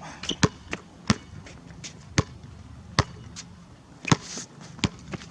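A basketball bouncing on a court, about six sharp bounces at an uneven pace of roughly one a second, as in a slow dribble.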